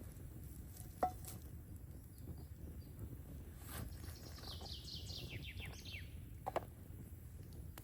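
A songbird sings a quick run of descending whistled notes lasting about two seconds, over a steady low outdoor rumble. There are sharp clicks about a second in and again shortly after the song.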